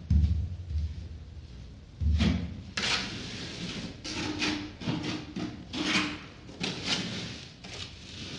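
Spatula scraping tile adhesive across drywall in a run of about a dozen short, quick strokes, some with a faint squeak. There are two dull knocks, one at the very start and one about two seconds in.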